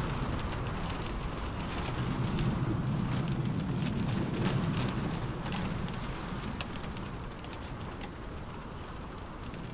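Rain falling on a car roof, heard from inside the car as a steady patter with scattered sharper drop ticks. Wind gusts over it as a low rumble that swells in the first half and eases toward the end.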